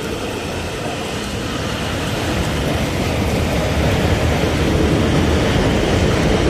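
Subway train approaching on the tracks, its rumble building steadily louder, with faint steady tones.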